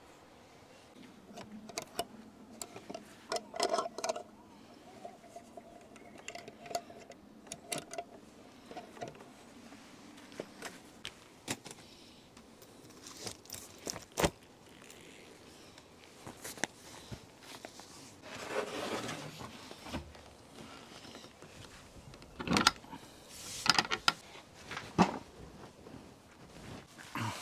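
Irregular clinks, knocks and scrapes of objects being handled, with a louder run of sharp knocks about two-thirds of the way in.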